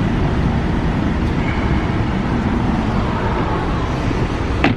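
Steady motor-vehicle rumble, with a single sharp click near the end.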